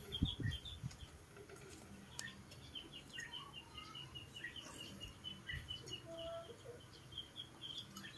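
Small birds chirping in the background: a steady, fast run of short high chirps, several a second, with scattered lower calls among them. A few soft low bumps just at the start.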